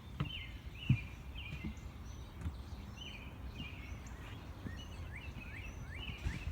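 Small birds chirping, many short repeated calls, over a steady low outdoor rumble, with a sharp knock about a second in.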